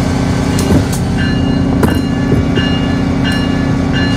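A train bell ringing over and over, about once every 0.7 seconds, above the steady low drone of a locomotive running at the platform, with a few sharp clanks.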